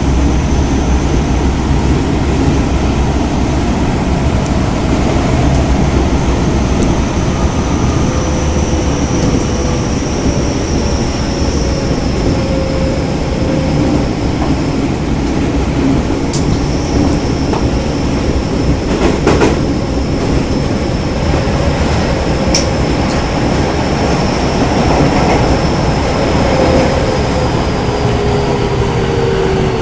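Tokyo Metro 10000 series subway train running, heard inside the car: steady wheel and motor rumble with a few sharp clicks about midway. Faint whining tones from its Mitsubishi IGBT VVVF inverter and traction motors drift in pitch, and one falls near the end.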